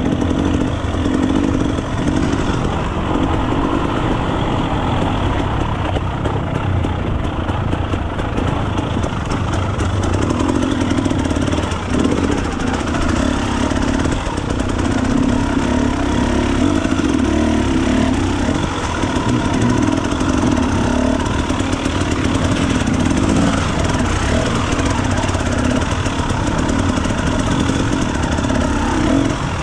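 Enduro dirt bike engine running continuously, its note swelling and easing every few seconds as the throttle is opened and closed.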